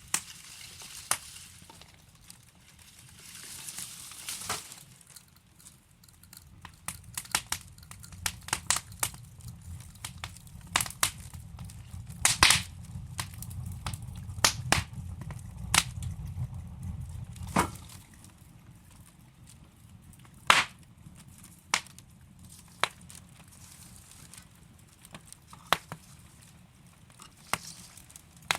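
Burning logs crackling in a fireplace: irregular sharp pops and snaps. A low rumble runs under them from about a third of the way in until a little past halfway.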